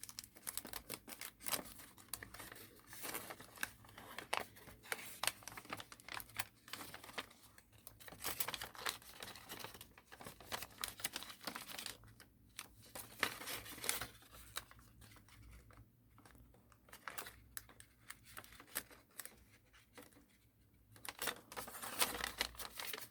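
Sheet of paper being folded and creased by hand: irregular crinkling and rustling with small sharp clicks as folds are pressed, pausing briefly now and then.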